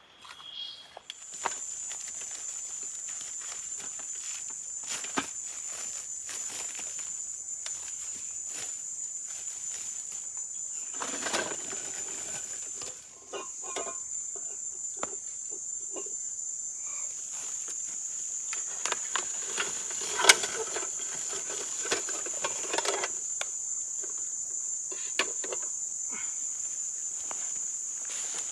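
An insect calling with a steady, high-pitched continuous trill that starts about a second in, over scattered sharp clicks and knocks, the sharpest about two-thirds of the way through.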